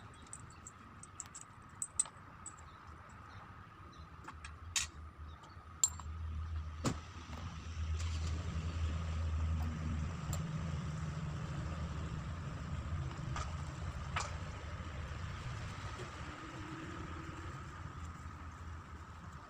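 A low engine rumble swells about six seconds in and then slowly fades. Before it, a few light clicks of small parts or tools being handled.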